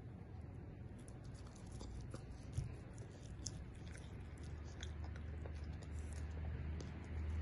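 Dog chewing and crunching food, with many small irregular wet clicks, and a low rumble building up in the second half.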